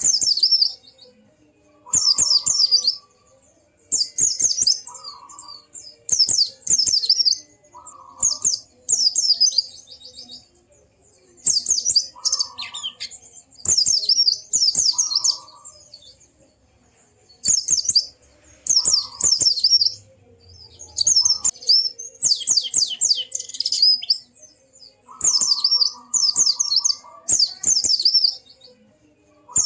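White-eye (pleci) singing in short, rapid, high-pitched twittering phrases repeated every second or two. Several phrases carry a lower whistled note underneath.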